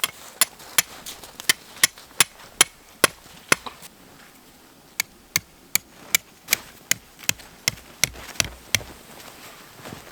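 Tent stakes being hammered into the ground: two runs of quick, sharp, even strikes at about three a second, with a short pause between them.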